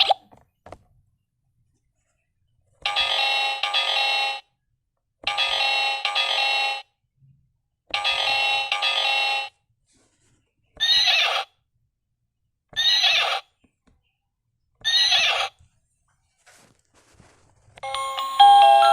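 A recorded animal sound played six times from a toy's small speaker, with pauses between: three longer plays, then three shorter ones that curve in pitch. A short chiming tune starts near the end.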